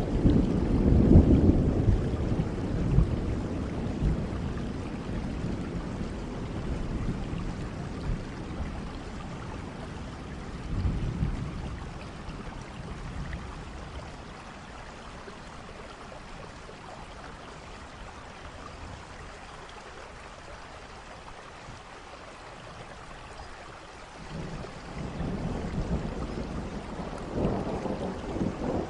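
Steady rain with rolling thunder: a low rumble fading away over the first several seconds, a brief one about eleven seconds in, then only rain for a while before another long rumble builds near the end.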